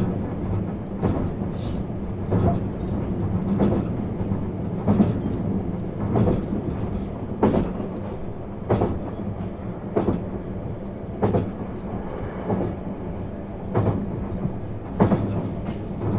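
Interior running sound of a JR 651 series electric multiple unit travelling steadily, with a continuous low rumble and hum. Wheels knock over rail joints in a regular clickety-clack, about one knock every second and a quarter.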